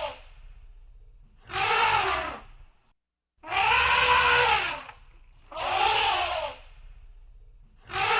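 Elephant trumpeting: a call repeated about four times, each lasting about a second and rising then falling in pitch, with short quiet gaps between.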